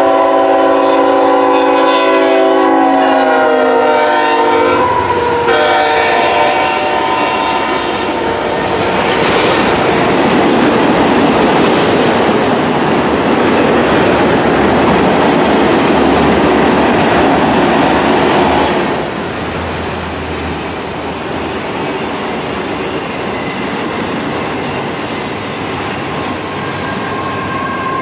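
Union Pacific freight locomotive's multi-chime air horn sounding one long blast and then a second shorter one as it approaches, followed by the loud rumble of the locomotives and freight cars passing close by. After about 19 seconds the rumble drops to the quieter rolling and clickety-clack of the freight cars' wheels over the rail joints.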